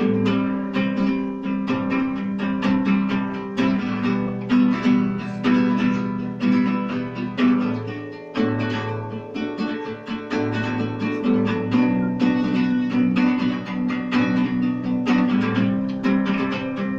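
Acoustic guitar strummed in a steady rhythm, moving through a chord progression, with a brief pause about eight seconds in.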